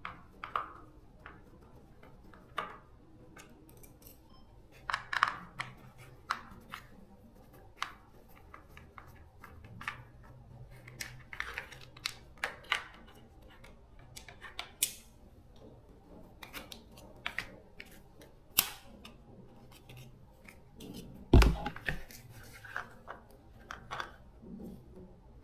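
Irregular clicks, taps and light metallic clinks of hand tools and parts being handled during work on a water heater, with one heavier knock about twenty-one seconds in.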